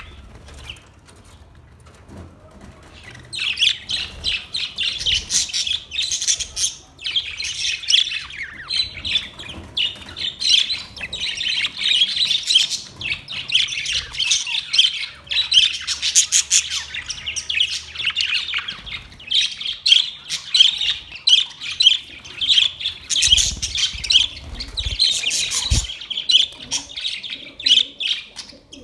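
A flock of white and green parrots chattering and chirping together in a dense, continuous babble of high calls, starting about three seconds in.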